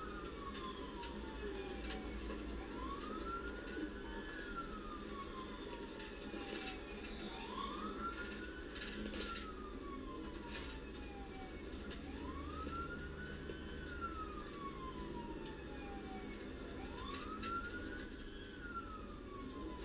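Police car siren on a slow wail, rising and falling in pitch about four times, each rise quicker than the long fall. A few faint crackles occur here and there.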